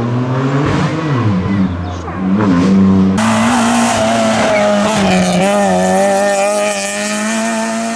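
Rally car engines at racing speed: first an engine revving up and down through gear changes, then, after an abrupt cut about three seconds in, a car held at high, steady revs with a loud hiss of tyres on the road.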